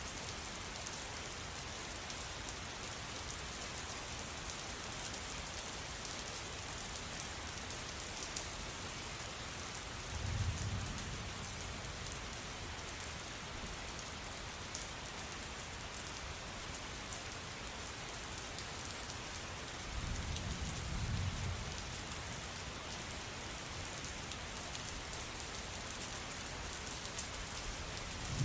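Steady rain falling, a dense even hiss with individual drops ticking through it. Two low rumbles of distant thunder, each lasting a second or two, come about a third of the way in and again about two-thirds through.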